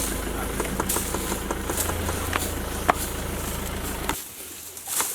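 Safari jeep's engine idling steadily, with scattered light clicks and one sharp click near three seconds in; the engine hum stops abruptly about four seconds in.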